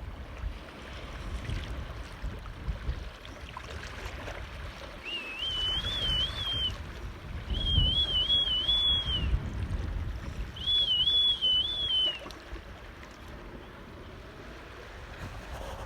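Water sloshing with a low rumble, and three short warbling whistles, each about a second and a half long, a few seconds apart in the middle.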